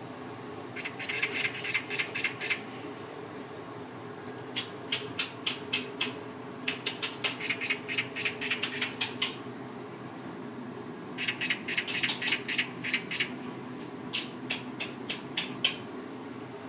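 Scottish Fold cat chattering at birds: bouts of rapid, sharp jaw clicks, about eight to ten a second, five runs of one to two and a half seconds each, over a steady low hum.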